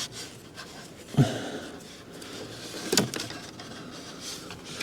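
Hands working stiff lines and hoses into place on an engine's intake manifold: faint rubbing and scraping with two sharp clacks, about a second in and about three seconds in.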